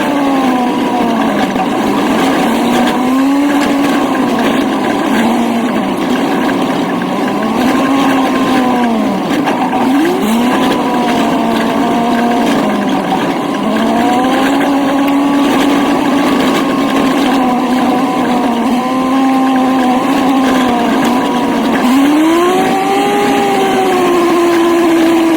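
Old truck's engine running as it is driven, its note rising and falling again and again as it speeds up and eases off, with a sharp climb about ten seconds in and another near the end.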